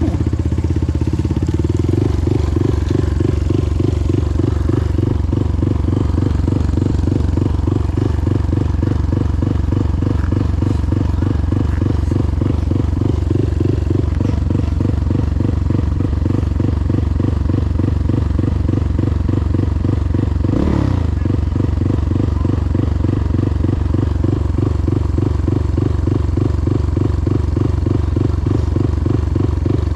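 Motorcycle engine running steadily with an even, rapid pulse. About two-thirds of the way through there is one short clatter.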